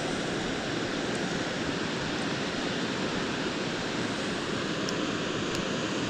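Steady rush of moving creek water, an even hiss with no breaks.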